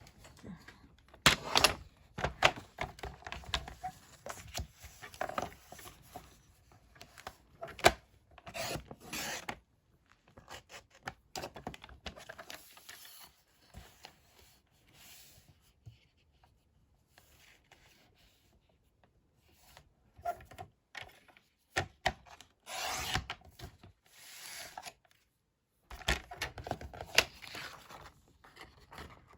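Paper and card stock being handled and slid on a desk: irregular rubbing and rustling with a few sharp taps.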